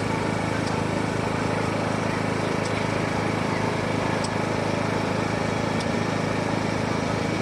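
An engine running steadily at idle: a low, even drone that does not change, with a few faint light ticks over it.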